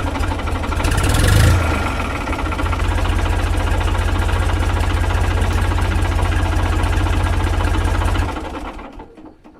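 Tractor engine sound running steadily with a low, even throb. It swells briefly about a second in and fades out near the end.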